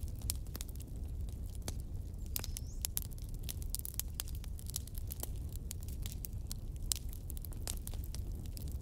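Wood fire crackling steadily, with many sharp pops and snaps over a low rumble, and a brief high whistle about two and a half seconds in.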